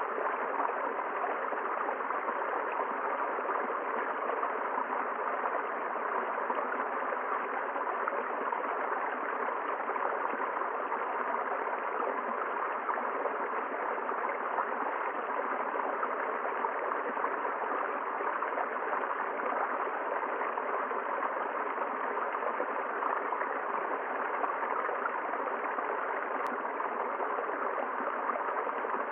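River water flowing and rushing steadily over stones, an even, continuous rushing sound.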